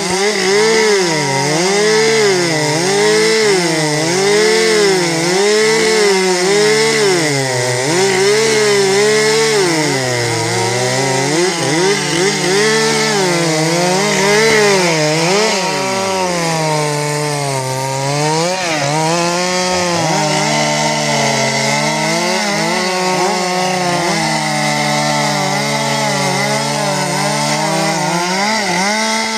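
Two two-stroke chainsaws running together while cutting through logs in a race. Their engine notes keep dipping and recovering as the chains bite into the wood and clear it.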